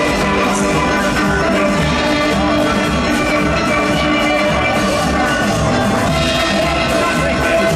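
A steel band playing: many steelpans ringing out sustained chords and melody over a steady drum and bass beat.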